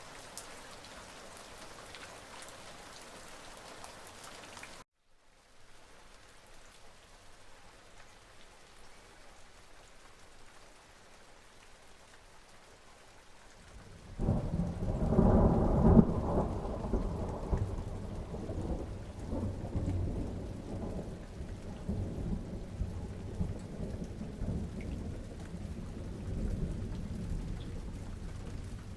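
Steady rain that cuts out abruptly about five seconds in and comes back more softly. About fourteen seconds in, a loud rumble of thunder breaks suddenly over the rain and rolls on, slowly fading.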